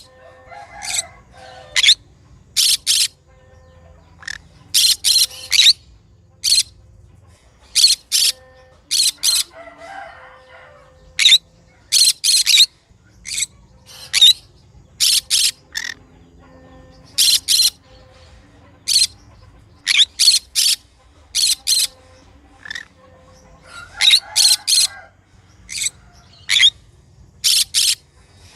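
Conure giving loud, harsh, shrill screeches in short calls. They come in quick runs of two to four, about every second or two, with softer chatter in between.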